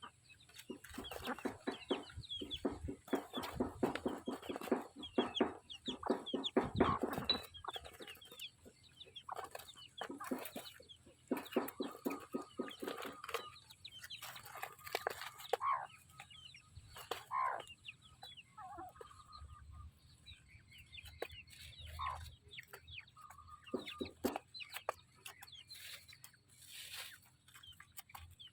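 Chickens clucking: dense runs of short calls in the first several seconds, then sparser, scattered clucks.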